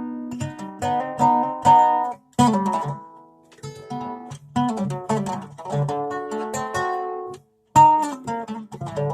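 Acoustic guitar played in short strummed and plucked chord phrases, broken by two brief pauses.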